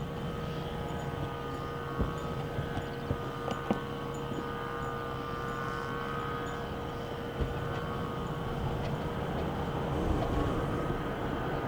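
Jet airliner engines running with a steady whine of several tones over a low rumble, slowly growing louder near the end.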